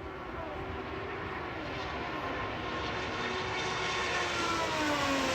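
Race car engines on track, growing louder as the cars approach, the engine note dropping in pitch near the end as they go by.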